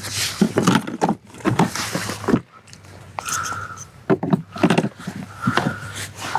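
Irregular knocks and scrapes of a freshly landed redfish being handled and shifting about on a kayak, with a quieter stretch a few seconds in.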